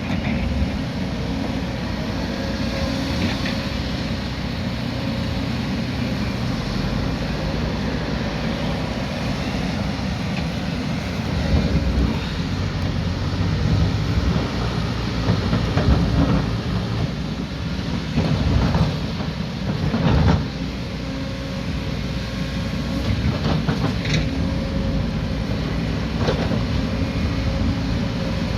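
Heavy earthmoving machine's diesel engine running steadily under load, with several sharp metallic clanks and knocks in the second half.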